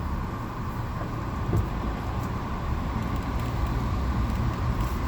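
Steady low rumble of a car running, heard from inside the cabin, with one short sound about a second and a half in.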